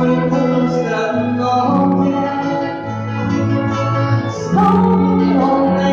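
Song with acoustic guitar and violin accompaniment, with long held notes over a bass line that changes about every second.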